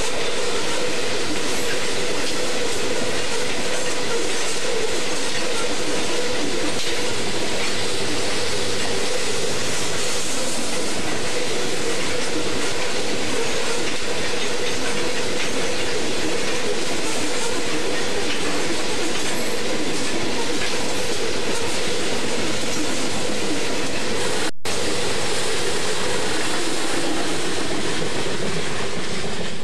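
Loaded coal train's cars rolling past at speed: a steady loud rumble of steel wheels on rail with a clickety-clack and a constant hum. The sound cuts out for an instant about three-quarters of the way through.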